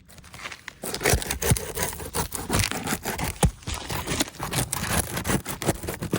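Asphalt shingle being pried up from the roof: a run of scraping and rubbing with many sharp cracks as the sealed tab is worked loose, starting about a second in. The cracking is the brittle shingle breaking as it is unsealed.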